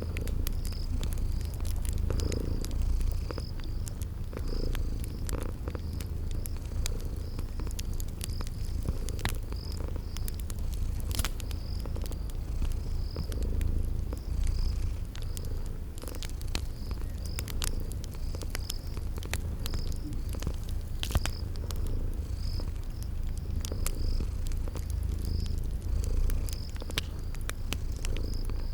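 A cat purring steadily in a low rumble. Faint crackles from a wood fire are scattered through it, and crickets chirp in an even rhythm about once a second.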